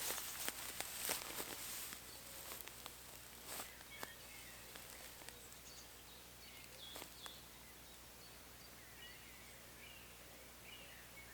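Quiet woodland with faint, scattered bird chirps. Rustling and clicks in the first couple of seconds then die away.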